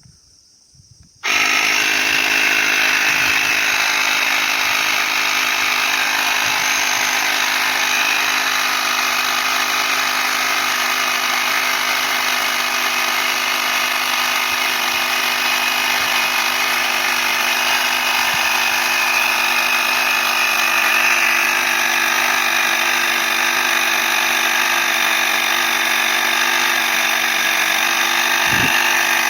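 Portable electric air compressor switching on about a second in and running steadily, its motor humming and pumping as it inflates a bicycle tyre.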